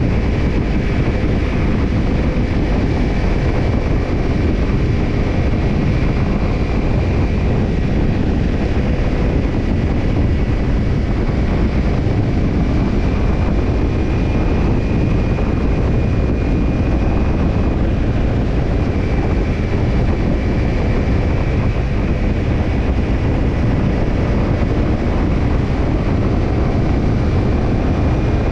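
Kawasaki Ninja 250's parallel-twin engine running steadily through a BEET Nassert Evolution Type II titanium slip-on muffler while riding, the exhaust note holding even with no revving up or down.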